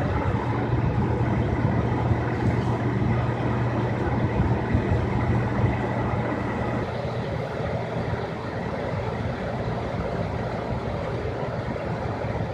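Pickup truck engine idling steadily: a constant low hum under a wash of even noise.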